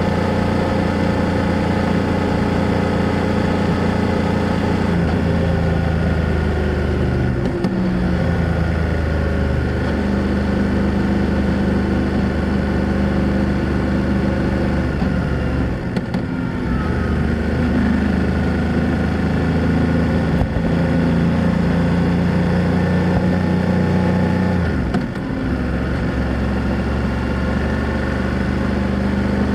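2024 BMW F800GS parallel-twin engine and exhaust running steadily while riding, with three short breaks in the engine note about 8, 16 and 25 seconds in.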